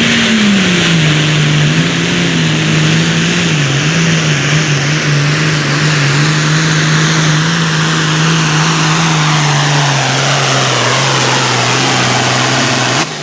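Competition pulling vehicle's engine running hard at full throttle under load during a pull, its pitch slowly sagging as it pulls down. The sound drops off suddenly near the end.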